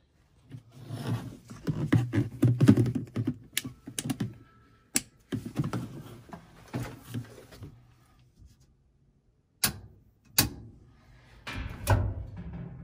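Irregular clattering and knocking of hard parts being handled, in uneven bouts, with a few sharp separate clicks near the middle and toward the end.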